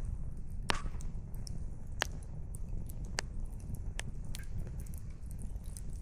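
Wood campfire crackling: about five sharp pops of burning firewood, irregularly spaced, over a steady low rumble.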